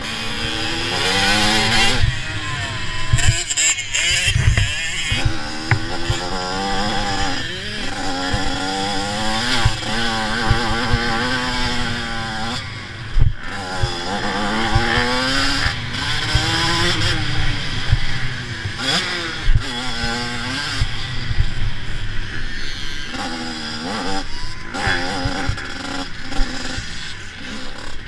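85cc two-stroke motocross bike engine racing, its revs climbing and dropping again and again through the gears, over a steady rushing noise. Scattered thumps, the hardest one about halfway through.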